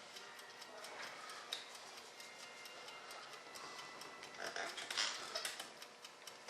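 Faint, irregular small clicks and rustles of hands working at a bench, growing busier about four to five seconds in.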